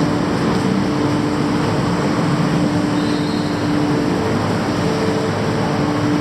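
Steady city street noise with a constant droning hum from an engine or machinery, which drops out briefly about three-quarters of the way through.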